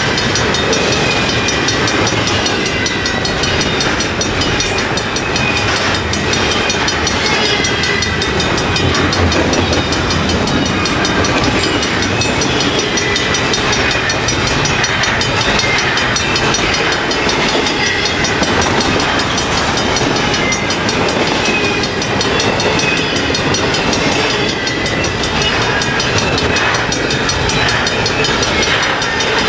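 Double-stack intermodal container well cars of a long freight train rolling past steadily, steel wheels rumbling with a continuous run of clicks over the rails.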